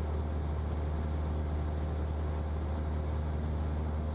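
Single-engine Cessna's piston engine and propeller droning steadily in the cockpit at pattern altitude, a constant low hum with no change in pitch.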